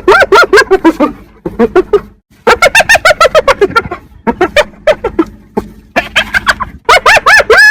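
Spotted hyenas giggling: fast runs of short cackling notes, each rising and falling in pitch, several a second. There is a brief break about two seconds in, and the notes grow higher and longer near the end.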